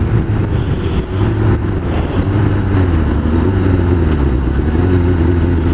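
Kawasaki ZX-6R sport bike's inline-four engine running at steady riding revs, its pitch wavering slightly after a couple of seconds, heard from on board with wind rush over the microphone.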